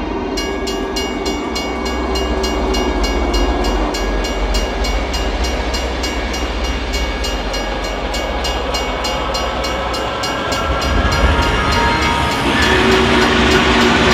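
Train running on rails: an even clicking of wheels over rail joints, about four or five a second, over a steady low rumble, with held horn tones. It swells louder and fuller near the end.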